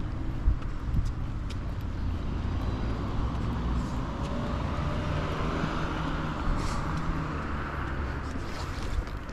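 Road traffic heard from the pavement: a car passes, its tyre noise swelling to a peak around the middle and fading again over a steady low rumble.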